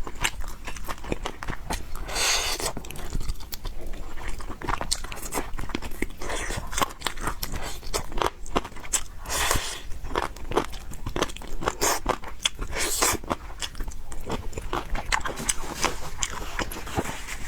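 Eating fried noodles and pork close to the microphone: chewing and biting, with many short crisp crunches and clicks.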